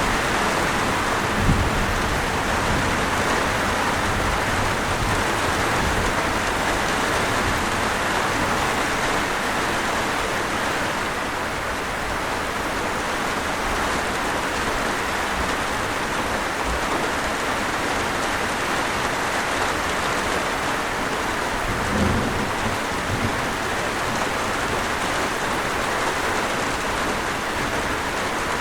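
Steady heavy rainfall, an even hiss of drops, with brief low thuds about a second and a half in and again about 22 seconds in.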